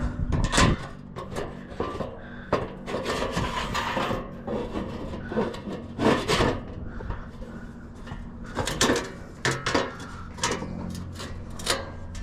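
Wooden form boards being handled and fitted: a run of irregular knocks, clacks and scraping rubs of wood on wood.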